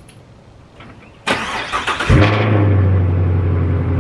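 Chevrolet Camaro 2SS's 6.2-litre V8 starting: a little over a second in, a sudden loud burst as it cranks and fires, then about two seconds in it settles into a steady, loud idle.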